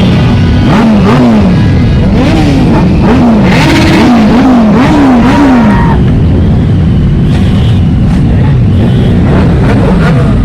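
Performance vehicle engines revved in short repeated blips, the pitch shooting up and dropping back again and again; after about six seconds the blipping stops and a steadier engine noise carries on.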